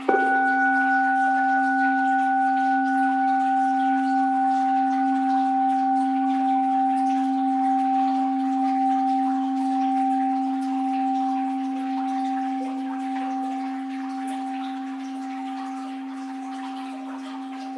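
An orin, a Japanese Buddhist bowl bell, is struck once at the start and rings on, a low hum with two higher overtones fading slowly, over a faint wash of flowing water.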